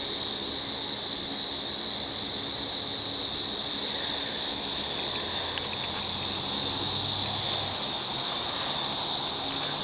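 Steady, high-pitched chorus of summer insects, a continuous shrill trilling.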